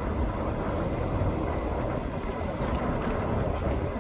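Steady low rumble of a distant train, with no distinct knocks or horn.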